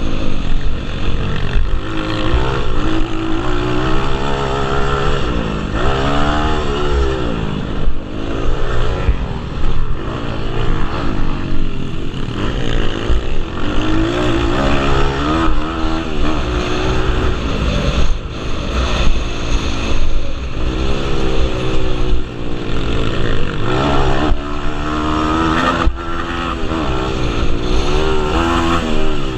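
Several pit bikes racing, their small motorcycle engines revving up and falling back again and again, overlapping one another as they ride the track.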